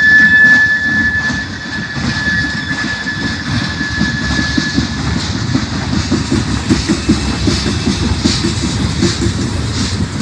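Freight train rolling past, its wheels clicking over the rail joints in a quick, continuous rhythm. A single high steady whine carries through the first half and fades out.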